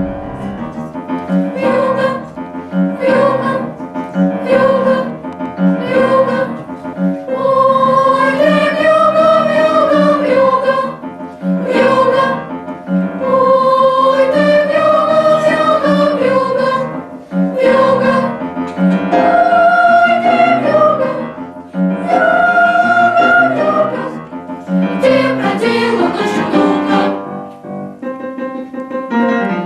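Children's choir singing in unison, phrases with long held notes broken by short pauses for breath.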